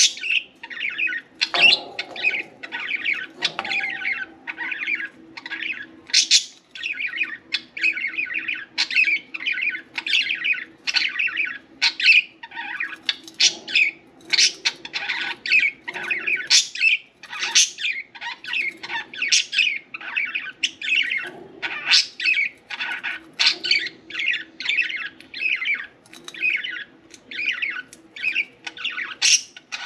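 Pet budgerigars chattering and warbling without pause, a dense run of quick chirps and squawky notes. A faint steady low hum runs underneath.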